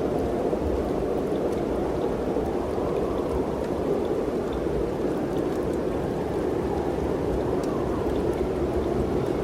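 Wind blowing steadily, an even rushing noise with a low rumble beneath it.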